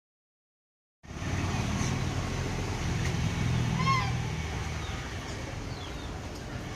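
Silent for about a second, then a steady low rumble with a single short chirp near the middle and a few faint high chirps.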